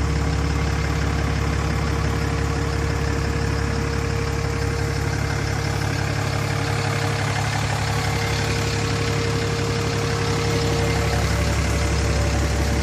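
Cummins turbo diesel of a 2008 Ram 2500, a 6.7-litre inline-six, idling steadily.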